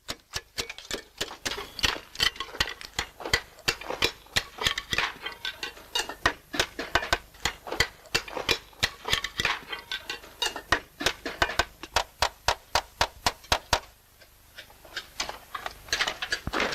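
Slater's hammer tapping on slate in quick, light, sharp strokes, several a second. The tapping thins out about fourteen seconds in, then picks up again.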